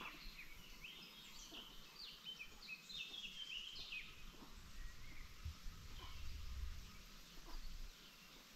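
Faint, high chirps from birds: a quick flurry of short calls in the first four seconds, then only a few scattered ones. A low rumble comes in about halfway through.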